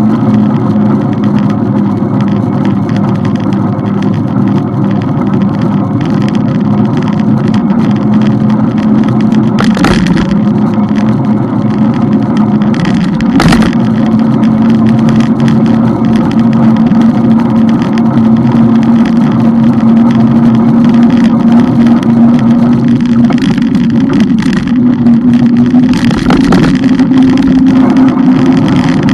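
Motorcycle engine running steadily at cruising speed over road and wind noise, its pitch creeping slowly upward in the last third. Two brief sharp knocks about a third of the way in.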